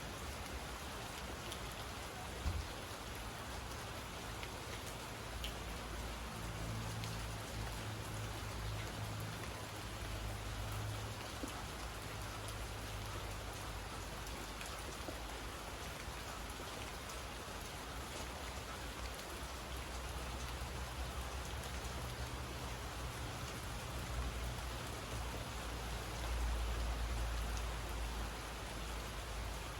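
Steady rain falling with a dense patter of drops. A low rumble swells in twice, and a single sharp tap sounds a couple of seconds in.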